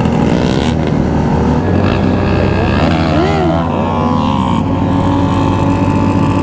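Motorcycle engines running together on a group ride, heard from one of the bikes. About three seconds in, one engine's pitch briefly rises and falls.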